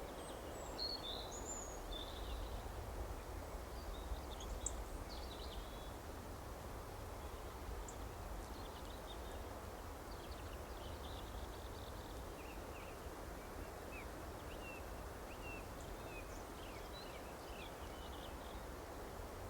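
Small songbirds chirping, with many short, high calls scattered throughout, over a steady low background rumble.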